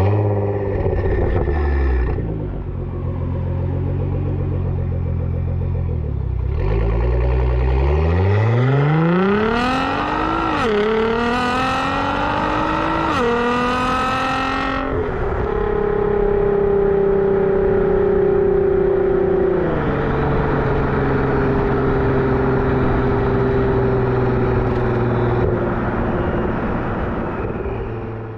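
Nissan GT-R R35's twin-turbo V6 through an ArmyTrix valved stainless steel exhaust. It runs low and steady at first, then about eight seconds in pulls hard, its note climbing and dropping sharply at two quick upshifts. It then settles into steady cruising, with one more drop in pitch from an upshift about two-thirds of the way through.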